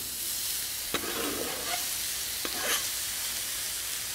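Diced Spam sizzling in olive oil on a hot Blackstone flat-top griddle, the sizzle starting as the cubes hit the steel. A few light clicks as the metal spatula spreads the cubes.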